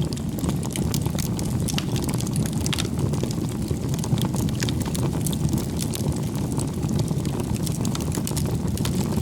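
Bonfire of firewood burning: a steady low rumble of the flames with frequent sharp crackles and pops from the wood.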